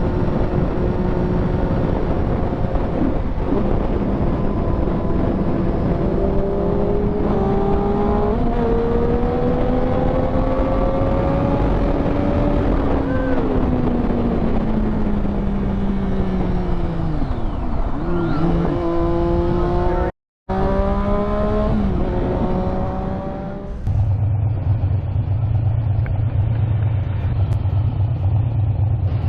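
Motorcycle engine heard on-board while riding, its pitch rising slowly as it accelerates, then falling off, then climbing again in steps. Partway through it breaks off briefly, and the rest is a steady low engine drone.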